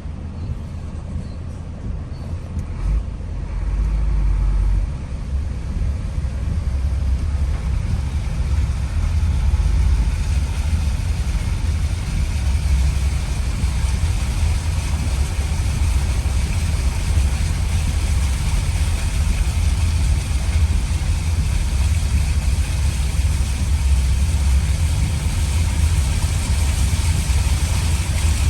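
Vehicle engine running with a deep, steady rumble, joined by a hiss that grows louder from about eight seconds in.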